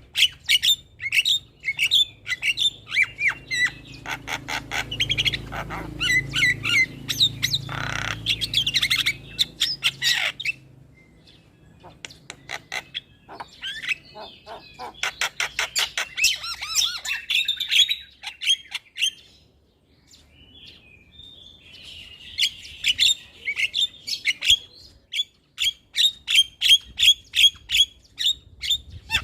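Javan myna (jalak kebo) calling: fast runs of sharp, evenly repeated notes mixed with harsh squawking chatter. The calls come in bouts with short pauses between them.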